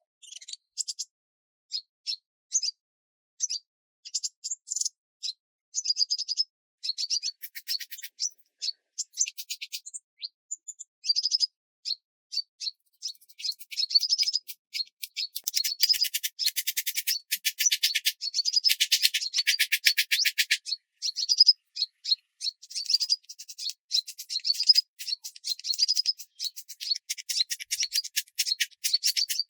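High-pitched chirping calls of small wild animals, coming as rapid trills in short runs. They come in fits and starts at first and are almost continuous from about halfway through.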